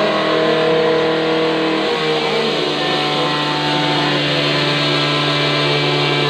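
Loud, steady drone of a running motor: several constant hum tones over a rushing noise, the tones shifting slightly about two seconds in.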